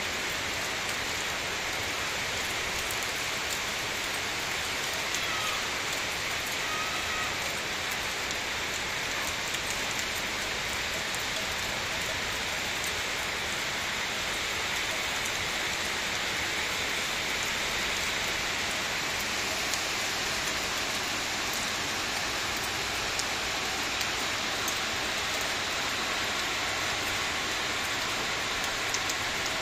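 Steady rainfall: an even hiss of rain on roofs and wet ground, with faint scattered drop ticks.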